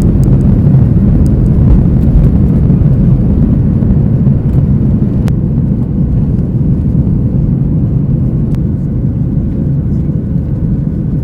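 An airliner's jet engines at high thrust, heard from inside the cabin during takeoff: a loud, steady, low rumble that eases slightly toward the end.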